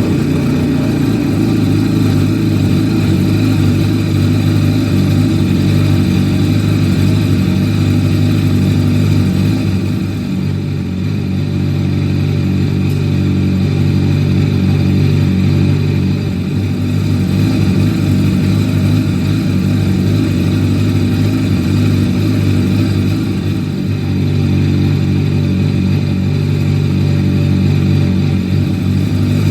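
2010 MV Agusta Brutale's inline-four engine idling steadily just after being started, with slight dips in level about ten seconds in and again around 24 seconds.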